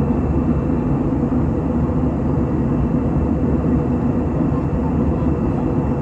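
Steady airliner cabin noise in flight: the low, even drone of engines and rushing air, with a faint constant hum running through it.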